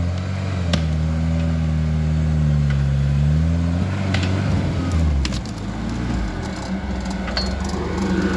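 Off-road truck engine held at raised revs under load, its pitch wavering, then dropping to a lower, steady running note about four to five seconds in, with a few light clicks. The driver is riding a slipping, burning clutch because the transfer case has lost low range.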